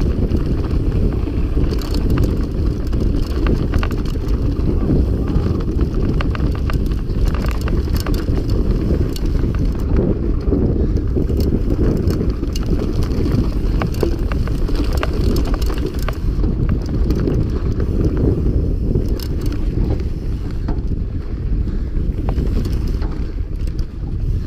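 Mountain bike rattling and clattering over rough trail at speed, with frequent sharp knocks from the frame and components. Heavy wind buffets the microphone. Near the end it eases off a little.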